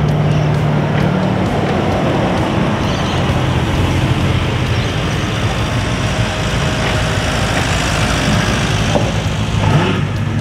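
Car engines running amid traffic noise, the low engine note shifting in pitch, with a brief rising engine note near the end.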